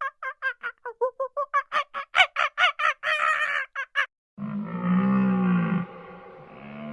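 Animal calls: a rapid run of short, pitched calls, about four or five a second, for the first few seconds, then after a short gap a long, low drawn-out call that starts again near the end.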